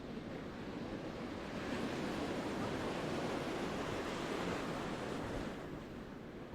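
Ocean surf on a beach: a wave builds about a second and a half in, washes loudly for a few seconds, and falls away near the end.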